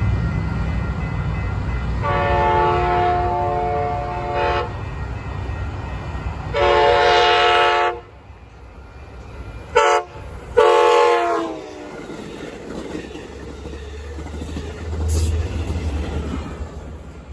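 Locomotive air horn sounding a chord of several tones over the low rumble of a passing train. It gives two long blasts, a short one, then another long blast.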